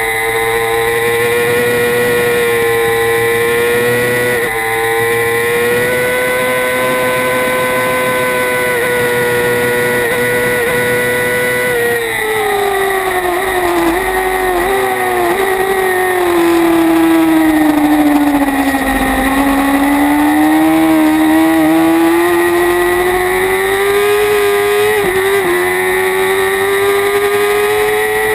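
Kawasaki Ninja ZX-6R's inline-four engine under race load. It holds high revs for about twelve seconds with a brief dip at a gear change, then the revs fall gradually for several seconds and climb again with short dips at shifts.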